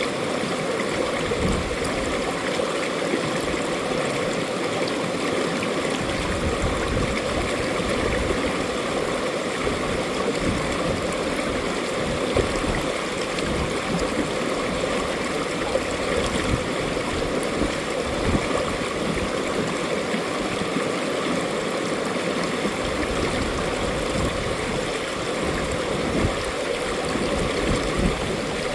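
Mountain valley stream flowing steadily, a continuous rush of water.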